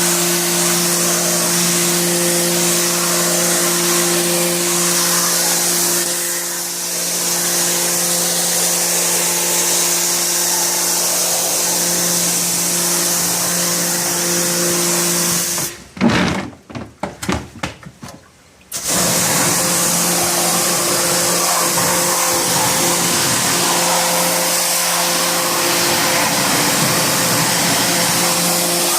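Electric motor of a cleaning machine running steadily, a hum with a strong hiss over it. About sixteen seconds in it cuts out, stutters on and off for a couple of seconds, then runs steadily again.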